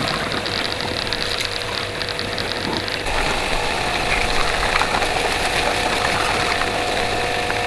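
A motor running steadily. About three seconds in its tone shifts higher and it gets a little louder.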